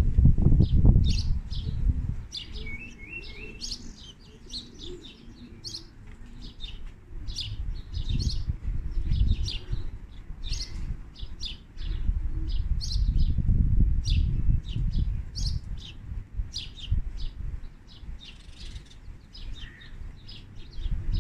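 Small birds chirping: a steady run of short, high chirps, with a low rumble that swells and fades underneath.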